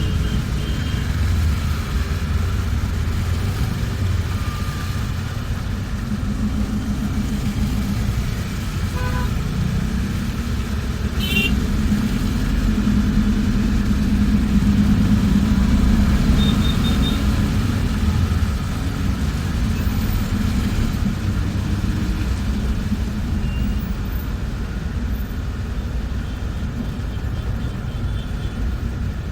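Steady rumble of a moving bus heard from inside: engine drone and road noise, growing a little louder in the middle. A few short faint beeps and chirps come through over it.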